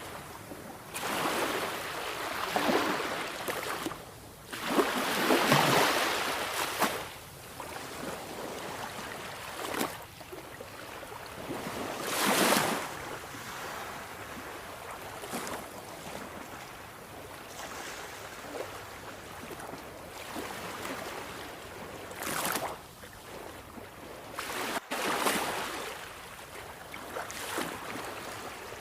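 Sea waves breaking and washing onto a shore: a steady hiss of surf that swells into louder surges every few seconds as each wave comes in.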